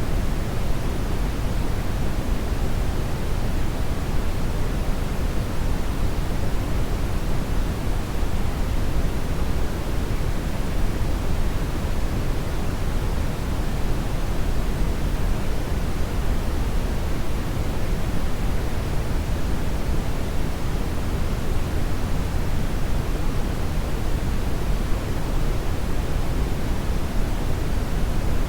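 Hair dryer running continuously: a steady rush of blown air, deepest in the low end, that does not change.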